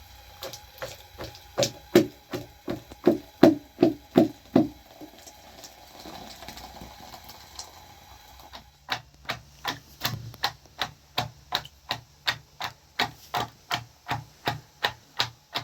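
Sharp knocks struck in a steady rhythm, about three a second, in two runs: the first dies away near five seconds in, and the second starts after a pause of about four seconds.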